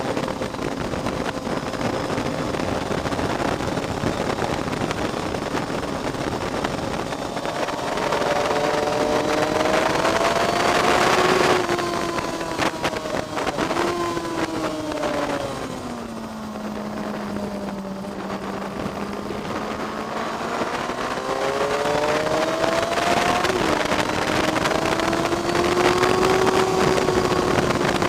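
Onboard sound of a track-day vehicle's engine under wind noise. The engine pitch climbs under acceleration, drops back with a few quick breaks just before the middle, sinks low and steady through a slow stretch, then climbs again.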